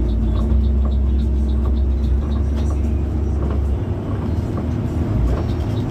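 Bus running on the road, heard from inside the cabin: a steady low engine drone under road noise, with a faint regular ticking.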